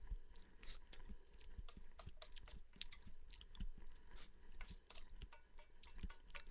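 A person chewing food with the mouth, making many small, irregular wet clicks and smacks.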